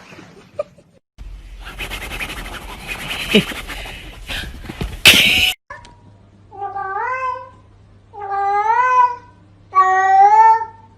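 A cat meowing: three long, drawn-out meows, each about a second, coming about a second and a half apart in the second half. Before them there is a stretch of noise ending in a loud burst.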